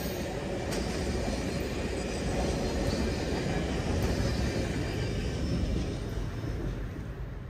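Canadian Pacific Office Car Special train rolling past on the rails: a steady rumble of wheels with a few faint clicks, fading away near the end.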